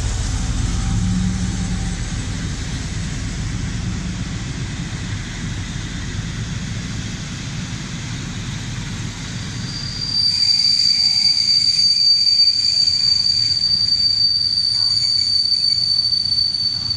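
MÁV M62 diesel locomotive's two-stroke V12 engine rumbling as it hauls its coaches away, slowly fading. About ten seconds in, a loud, steady high-pitched wheel squeal from the moving train takes over.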